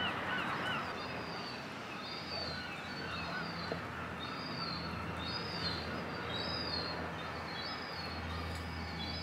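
Small birds chirping, short high calls repeated every second or so, over a steady low outdoor rumble.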